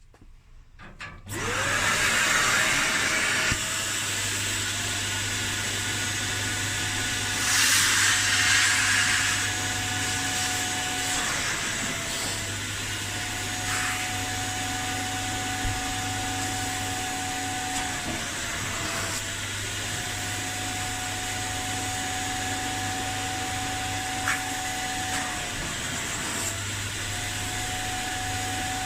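Kärcher Puzzi 10/1 spray extractor's vacuum motor switching on about a second in, spinning up and then running steadily with a whine that dips briefly in pitch a few times as the suction load changes. A louder rush of hiss comes about eight seconds in.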